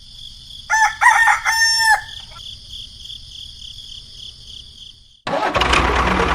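A rooster crowing once, a call of about a second with a few sharp breaks, over a steady high chirring of insects. Near the end a much louder, dense sound cuts in abruptly.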